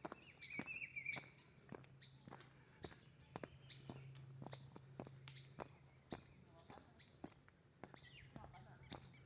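Footsteps walking at about two steps a second, faint, with a short bird chirp about half a second in and a thin high steady tone behind them.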